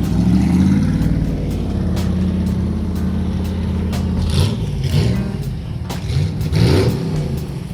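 A vehicle's combustion engine running with a steady low note, then revving up and down from about four and a half seconds in.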